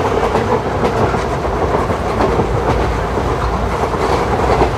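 Steady running noise of ICF passenger coaches on the move: a continuous rumble and rattle, with the wheels clicking now and then over the track.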